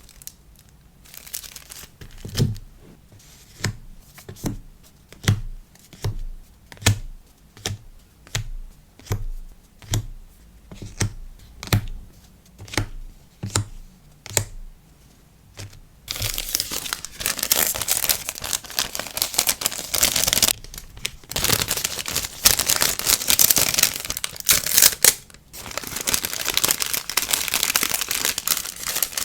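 Order packing: sharp, evenly spaced taps, about one and a half a second, for the first half. Then steady crinkling and rustling of plastic packaging, broken by two short pauses.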